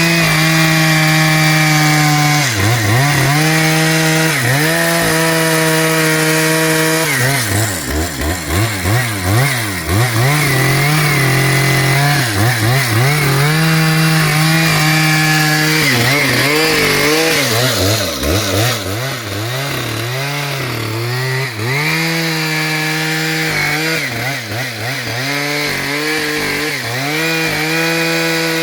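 Two-stroke chainsaw cutting through tree roots: the engine runs at high revs and repeatedly drops in pitch as the chain bogs down in the wood, then picks back up.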